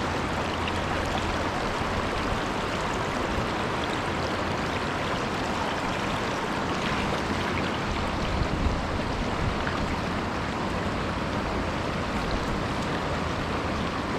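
Mountain trout stream running steadily, a constant rush of water.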